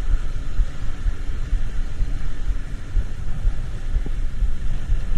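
Low, fluctuating rumble of a moving road vehicle, with road noise.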